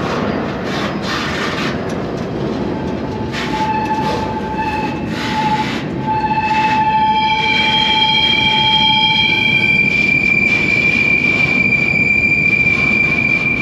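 Freight train rolling, heard from aboard: a steady heavy rumble of wheels on rail. Wheel squeal rises over it a few seconds in as high, steady ringing tones, and the highest one holds to the end.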